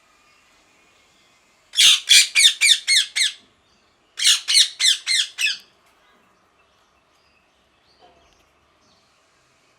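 Rose-ringed (ringneck) parakeet screeching in two bursts of harsh, rapidly repeated calls, about four calls a second, six in the first burst and five in the second after a short pause.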